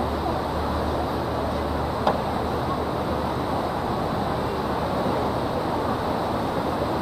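A river boat's engine running steadily, its low hum under a broad rushing noise, with one short click about two seconds in.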